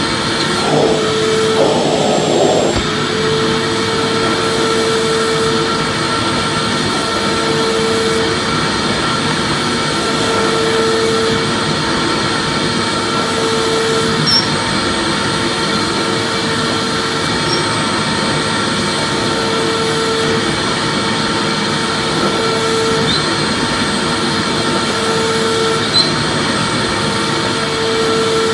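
Vacuum cleaner running steadily: a constant whooshing motor noise with a fixed whine, and a mid-pitched tone in it that swells and fades every few seconds.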